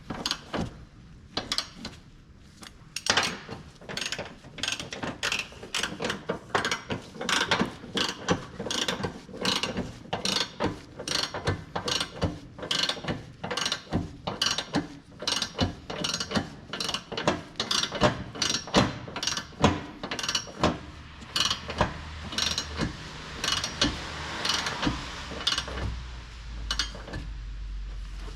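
Ratchet handle clicking in quick, uneven strokes as a bolt is turned with a socket.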